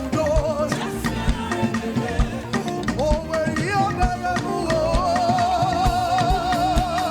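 Upbeat live praise-band music with a steady drum beat. A long note with vibrato is held through the second half.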